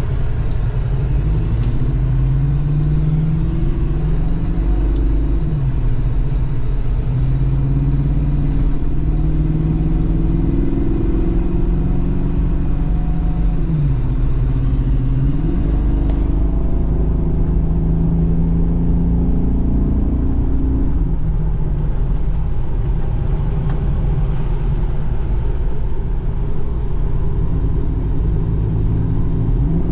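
1997 GMC Jimmy's 4.3-litre V6 running under way with heavy road rumble, the engine pitch holding, then falling and climbing again with gear changes, about six seconds in and again about fourteen seconds in.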